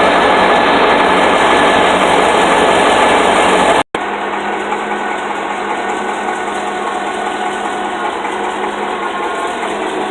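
The engine of a 1974 International Harvester trackloader running steadily. The sound cuts out for an instant about four seconds in and carries on a little quieter.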